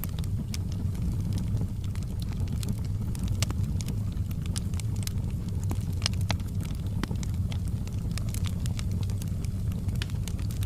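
Wood fire burning in a fireplace: frequent irregular crackles and sharp snaps over a steady low rumble of flames.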